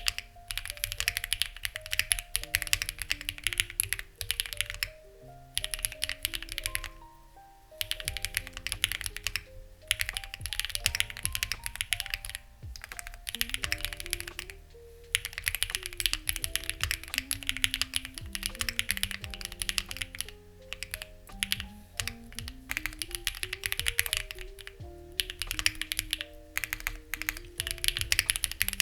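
Typing on a Lucky65 v2 mechanical keyboard with stock, unlubed HMX Ziwei switches and CMK clone keycaps: runs of rapid key clicks broken by short pauses. Soft background music with a slow melody plays underneath.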